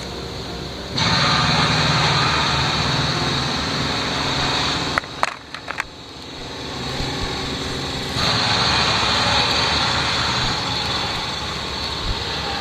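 A small engine running with a loud hiss, cutting in abruptly about a second in. It breaks off for a few seconds in the middle, where there are a few sharp clicks, then starts again.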